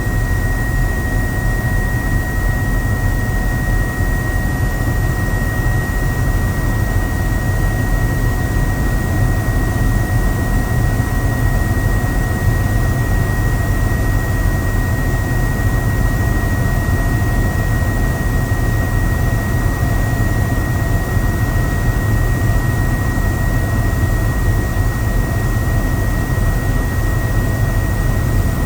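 Helicopter in flight heard from on board: a steady, loud drone of rotor and engine with a constant high whine over it.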